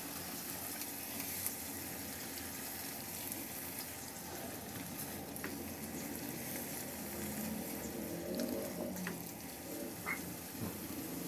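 Scrambled egg, tomato and onion sizzling in a nonstick wok as they are stirred together with a silicone spatula, with a few light taps of the spatula.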